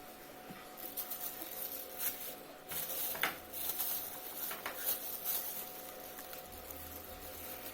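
Homemade slime squished and stretched by hand, giving irregular small squelches and crackles.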